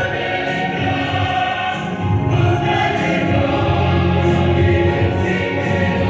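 Music with a choir of voices singing sustained notes over instrumental accompaniment with a steady bass.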